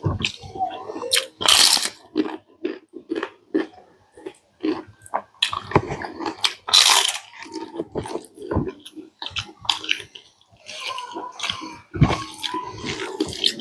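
Close-miked eating: a person biting and chewing smoked pork, with irregular wet smacks and clicks. Twice there is a louder, longer noisy burst.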